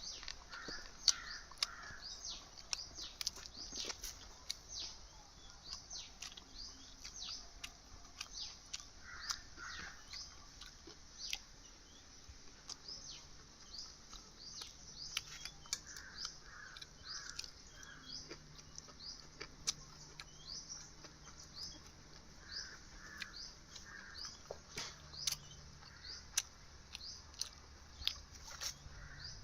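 Birds chirping: many short, high, falling chirps throughout, with now and then a group of three or four lower calls.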